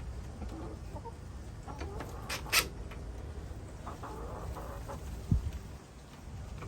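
Hens clucking softly, with two sharp clicks about two and a half seconds in and a dull low thump near the end.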